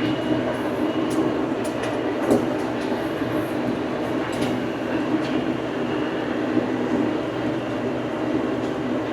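Old farm tractor's engine running steadily under way, with occasional short clanks and rattles.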